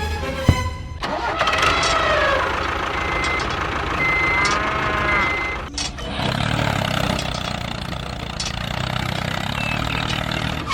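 An engine running, its pitch gliding up and down. A brief break comes a little before the middle, and then it settles into a lower, steady note.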